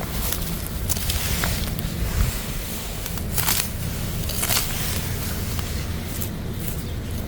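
Wind buffeting the microphone, with intermittent rustling and crisp snaps of plant stems as wild water dropwort is plucked by hand; the sharpest snaps fall about a second in, and twice near the middle.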